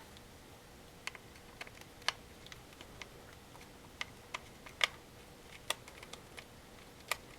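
Irregular small clicks and taps of a screwdriver working a small screw and handling the plastic parts of an AKG K240 headphone headband.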